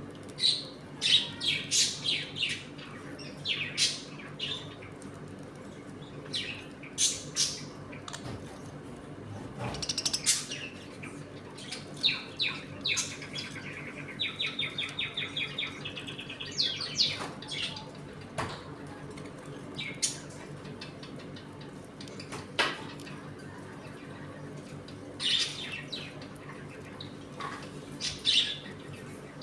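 Pet budgerigars chirping and chattering in short bursts, with a quick rattling trill about halfway through, over a steady low hum.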